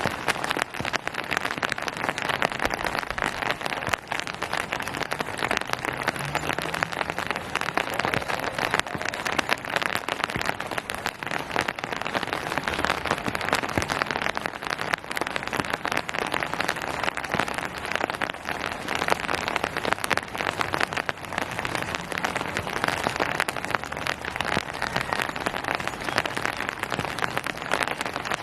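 Steady rain falling on surfaces: a dense, even patter of many drops.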